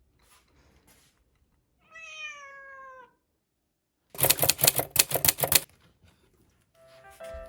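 A domestic cat meows once, a long meow that falls slightly in pitch, about two seconds in. A loud, rapid clattering rattle follows for about a second and a half, and light background music begins near the end.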